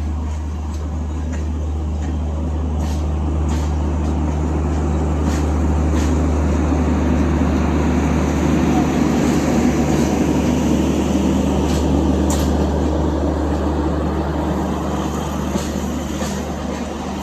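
Passenger train rolling past, a rumble that swells to a peak about halfway through and then eases, with sharp clicks of the wheels over rail joints.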